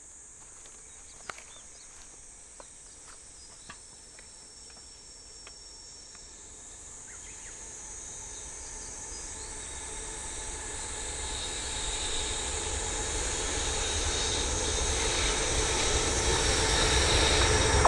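JR Freight EH500 electric locomotive hauling a container freight train, approaching and growing steadily louder. Its running noise builds over steady high-pitched insect chirring, with a few faint ticks in the first seconds.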